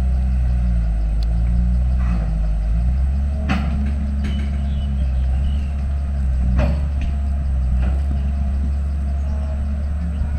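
Diesel engine of heavy earthmoving machinery running under load, its pitch shifting in the first few seconds, with a couple of sharp metallic knocks, one about three and a half seconds in and one near seven seconds.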